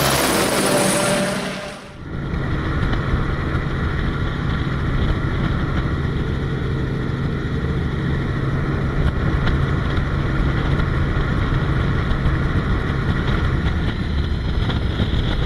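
A steady engine drone, even and unchanging, that begins about two seconds in after a short dip, as one clip cuts to the next.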